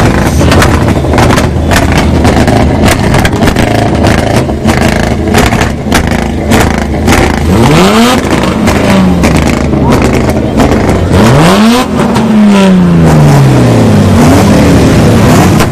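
Car engines revved hard through loud aftermarket exhausts, with two quick rev rises, one about eight seconds in and one about eleven and a half seconds in, each dropping back as the throttle is released.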